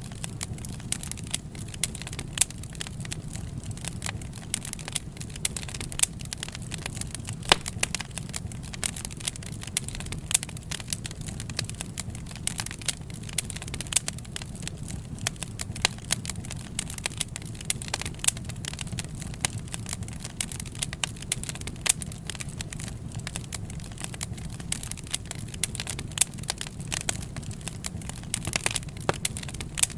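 Wood fire crackling: irregular snaps and pops over a low, steady rumble of burning.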